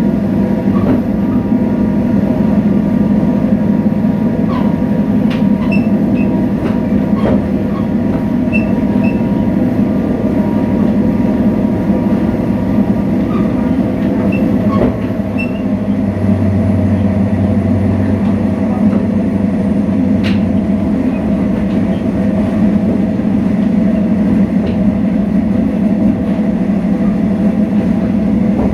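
Extra-large diesel locomotive No. 7351's engine running steadily under way: a loud, even drone with scattered light clicks and rattles from the running train.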